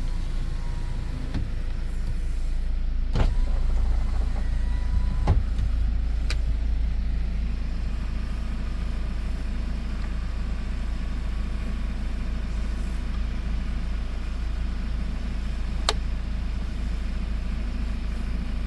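Hyundai Porter II truck's engine idling with a steady low rumble, with a few sharp clicks over it, three in the first half and one near the end.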